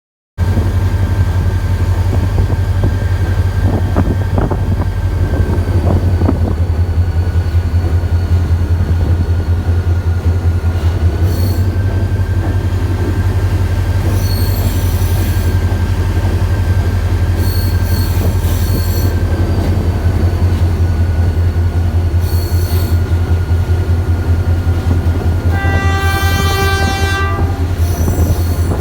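Passenger train rolling into a station with a steady low rumble and a long thin wheel squeal, plus short sharp squeals now and then. A locomotive horn sounds once for about a second and a half, near the end.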